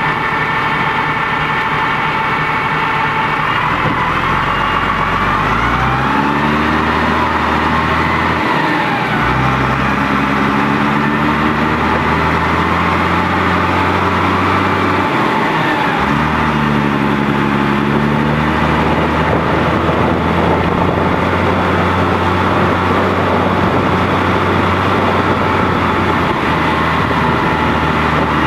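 Fendt 515c tractor's diesel engine running, heard at the exhaust. Its speed rises and falls a few times in the first two-thirds, then it settles to a steady speed.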